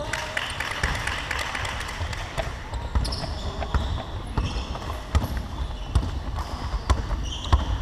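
Basketball game sounds in a gym: a basketball bouncing on the court in irregular knocks, short high squeaks, and players calling out.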